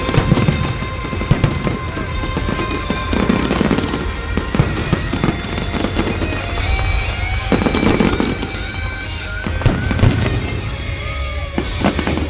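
Festival fireworks display: salute shells bursting with repeated bangs and crackling throughout, with music playing at the same time.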